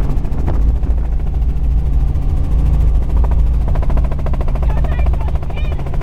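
Helicopter's engine and rotor heard from inside the cabin in flight: a loud, steady deep rumble with a rapid, even chopping pulse.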